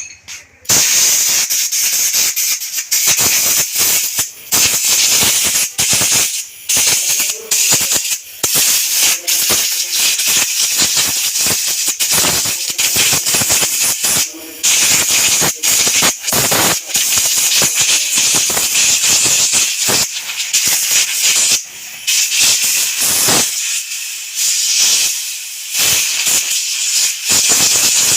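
A pressurised jet, used to clean a scooter's air filter, hissing loudly in long bursts with many brief stops.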